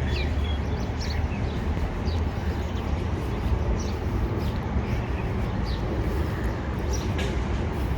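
Outdoor ambience: a steady low rumble, with a few short bird chirps scattered through it.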